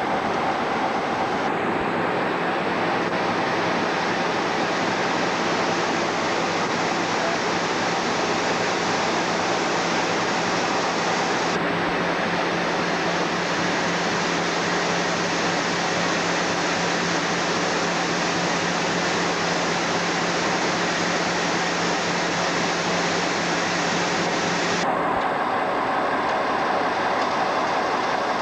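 Train at a station: steady running noise with a low, even hum that drops away about 25 seconds in, when a higher steady tone takes over.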